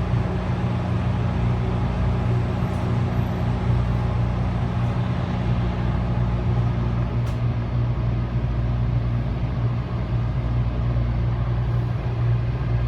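Steady low hum inside a standing MARC commuter rail car, the train's machinery and ventilation running while it waits to depart.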